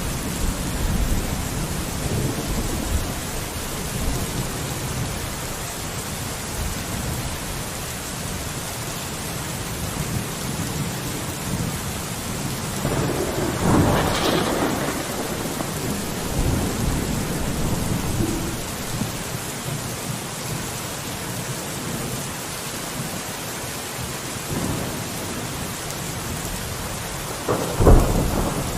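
Steady rain falling on a window, with a low rumble underneath. A louder swell comes about halfway through, and a short sharp burst comes near the end.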